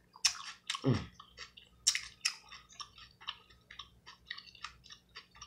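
Close-miked chewing of a raw Persian cucumber: irregular wet crunches and mouth smacks, loudest in the first two and a half seconds, with a brief low "mm" about a second in.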